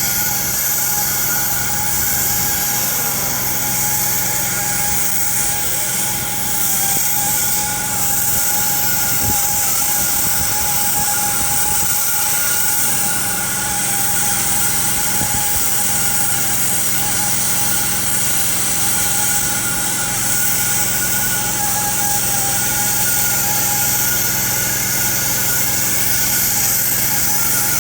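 Truck-mounted road-marking paint machine running steadily: a constant engine hum under two steady whining tones and a continuous high air hiss.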